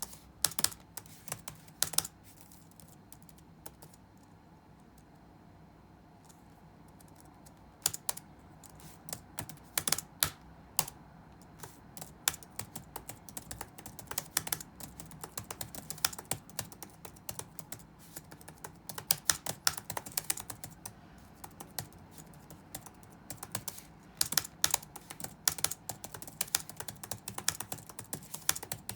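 Typing on a computer keyboard: irregular runs of key clicks with some louder strikes, broken by a pause of about five seconds near the start, over a faint steady low room hum.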